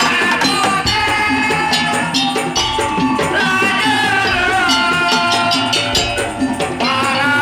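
Madurese daul (tong-tong) music ensemble playing loudly: drums and rattling percussion keep a steady beat under a melody line that bends in pitch.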